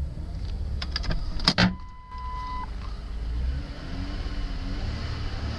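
2008 Ford Taurus 3.5-litre V6 running, with a few sharp clicks and a knock about a second and a half in, then the revs rising and falling near the end as the engine is revved up smoothly.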